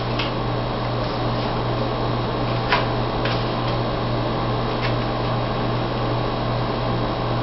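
Steady fan-like hum and hiss of room noise, with a few light taps of playing cards being handled and set down on a table, the clearest about three seconds in.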